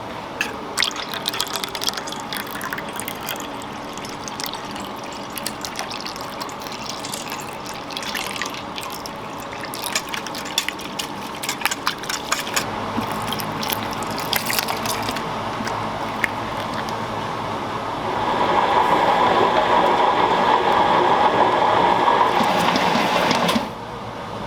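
Kitchen work in a donut shop: scattered clinks and knocks of utensils and equipment, then a louder steady rushing, water-like noise lasting about five seconds that cuts off suddenly.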